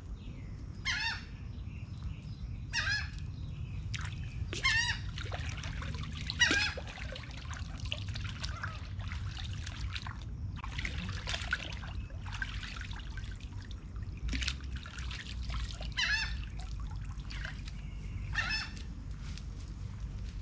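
A bird giving short, falling calls over and over, one every couple of seconds. In the middle, water trickles and splashes as hands stir the shallow canal water.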